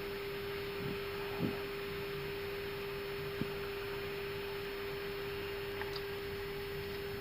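Steady electrical hum of an Airbus A319 flight deck, one unchanging tone over a hiss of air, with two faint clicks in the first few seconds.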